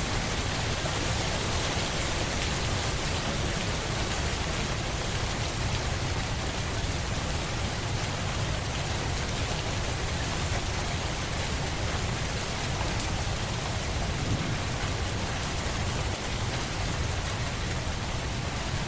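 Steady rain falling on surfaces, a dense even patter with a constant deep rumble underneath.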